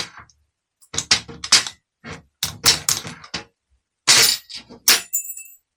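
Hammer striking a nut threaded onto a starter solenoid terminal stud to knock the stud out of the cap: about ten sharp metal-on-metal taps in uneven groups, the last one ringing briefly.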